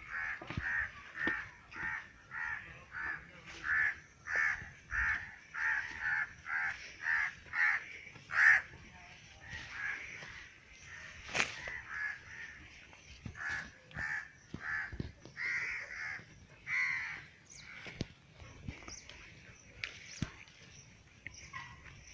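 A bird giving short, harsh calls, about two a second for the first eight seconds or so, then more scattered calls. A single sharp click near the middle.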